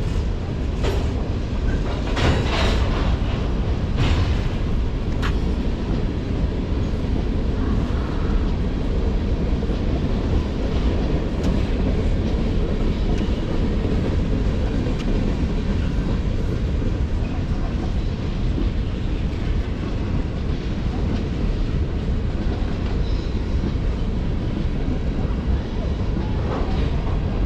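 Freight train rolling past: a steady low rumble of cars on the rails, with a few sharp clicks and squeals in the first few seconds.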